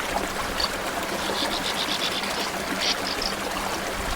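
Small stream running steadily, with a few short high chirps over it, including a quick run of them midway.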